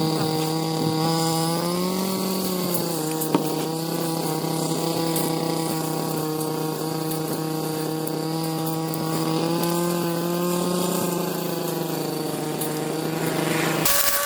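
Small engine of a handheld garden power tool running steadily at high speed, its pitch rising briefly about two seconds in, then stopping shortly before the end.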